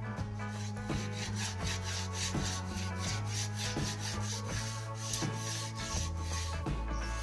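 Sandpaper rubbing back and forth along a wooden snooker cue shaft by hand, in repeated strokes a few times a second. Background music with sustained tones plays underneath.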